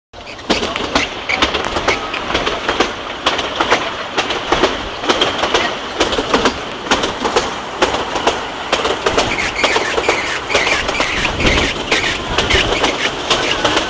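Passenger train running on the rails, wheels clattering with a steady rumble and frequent irregular knocks, and higher squeals now and then in the second half.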